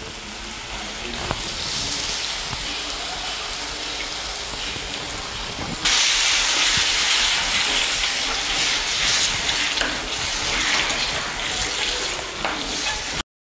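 Spiced onion-tomato masala sizzling in a clay pot with tamarind pulp just poured in, a spatula stirring and scraping through it. The sizzle grows clearly louder about halfway through, then cuts off abruptly near the end.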